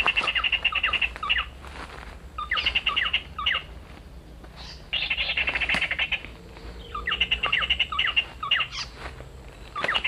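Pin-striped tit-babbler (ciung air) calling: a fast chattering series of notes, about a second long, repeated about every two and a half seconds.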